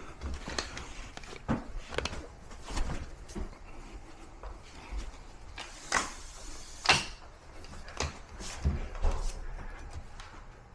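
Scattered knocks and clunks of gear being handled, with a louder rustling swish about six to seven seconds in.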